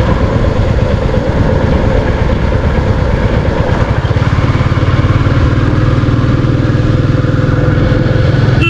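Royal Enfield Classic 350 single-cylinder motorcycle engine running steadily while the bike is ridden, its low exhaust note a little stronger from about halfway through.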